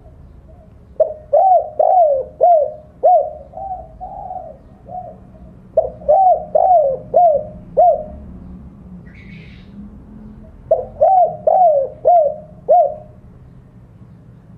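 Spotted dove cooing its challenge call to rivals, in three phrases of four or five coos each, every coo rising and falling in pitch, with short pauses between the phrases.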